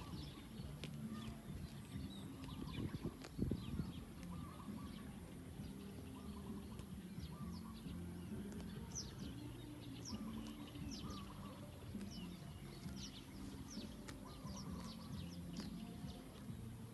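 Small birds chirping, many short high calls scattered through, over a steady low rumble.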